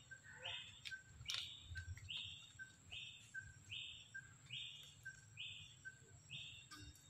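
A bird repeating a two-part call about eight times, a little more than once a second: a short clear note followed by a higher rasping note. A few faint clicks sound in the first second or so.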